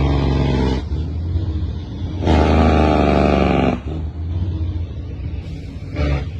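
Heavy diesel truck engine running steadily, with a louder surge lasting about a second and a half, a couple of seconds in.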